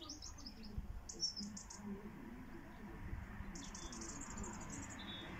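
Small songbird chirping outdoors in quick runs of high-pitched notes, in three bursts: at the start, about a second in, and again from about three and a half seconds to five.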